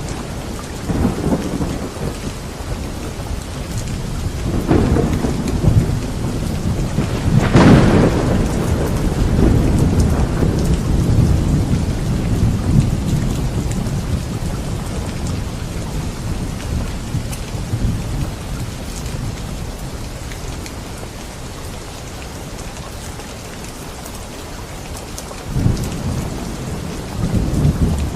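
Steady rain falling during a thunderstorm. About a quarter of the way in a thunderclap breaks, the loudest sound, rumbling on for several seconds before it fades. Fresh rumbles of thunder come near the end.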